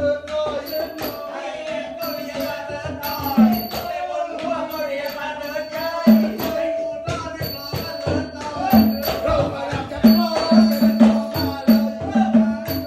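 Live Nora ensemble music: a held, wavering melody over fast, steady percussion and a repeating low pulse.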